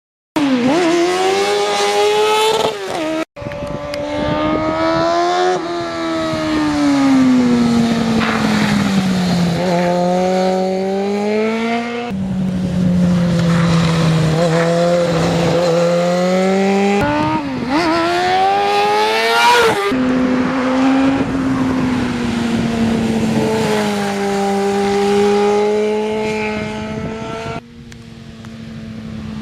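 2001 Kawasaki ZX-6R Ninja's inline-four engine being ridden, its note climbing and falling again and again through the revs. The sound breaks off abruptly several times, and is quieter for the last couple of seconds.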